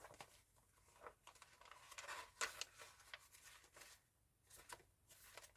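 Faint rustling and light taps of handmade paper journals being handled, a few soft scattered sounds over near silence, a little louder around two seconds in.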